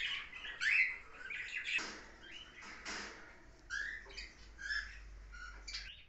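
Caged pet birds calling: a string of short chirps and whistled notes, some gliding up or down in pitch, with a couple of brief rustles in between.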